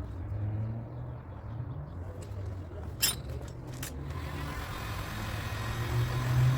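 A car engine running with a low rumble that shifts slightly in pitch, with two sharp clicks about three and four seconds in. From about four seconds in, a steady hiss joins it.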